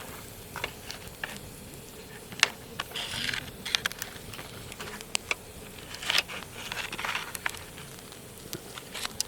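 Wood campfire crackling, with scattered sharp pops and two short hissing rushes.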